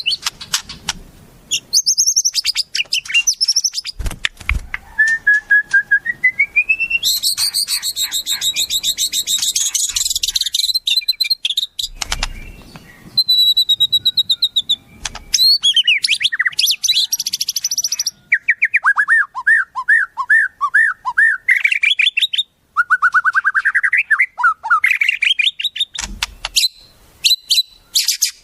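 Wild songbirds calling in quick succession: fast trills, rising whistled glides and runs of rapid repeated chirps, used as tutoring song for a white-rumped shama.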